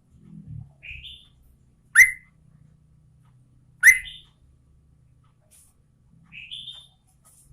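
Yellow-vented bulbul (trucukan) calling in short, separate sharp notes: two loud rising notes about two and four seconds in, with softer, higher notes around one second in and near the end.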